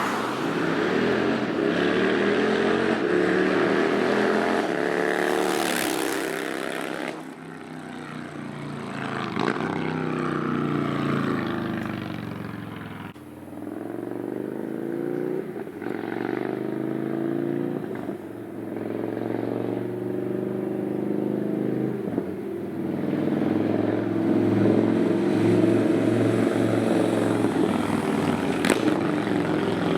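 2022 Indian Chief Dark Horse's Thunderstroke 116 V-twin through a Freedom Performance Combat 2-into-1 exhaust with the performance baffle, under way: the engine note rises in pitch and drops off several times as it accelerates through the gears, then runs more evenly near the end. The exhaust tone is very deep.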